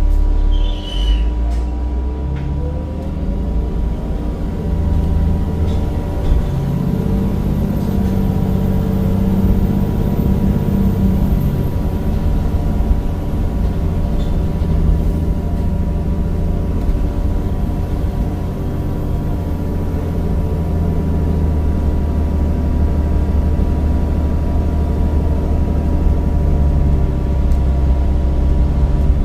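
Temsa Avenue bus with a replacement Cummins diesel engine and ZF gearbox, running under way: a steady low rumble with a few constant tones over it.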